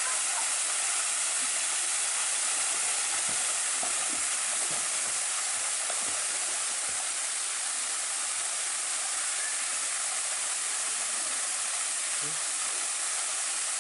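Waterfall: falling water makes a steady, even rushing hiss.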